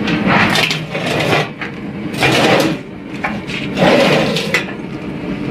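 Three rough scraping and rubbing noises as a gas patio heater is shifted a little to one side over the ground.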